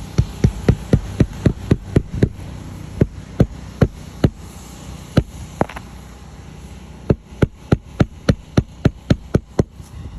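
Repeated sharp knocks, about four a second. They come in a run at the start and another near the end, with a few slower, spaced knocks between.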